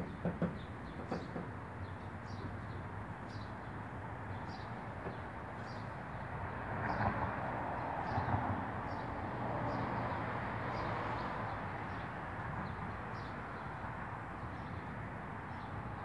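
A bird repeats a short, high call about every two-thirds of a second. Behind it is a broad background rush that swells for a few seconds near the middle.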